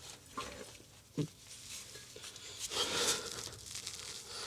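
Faint handling noises from exhaust pipe sections being pushed and adjusted into place by hand: a short knock about a second in, then a longer scraping rustle around three seconds.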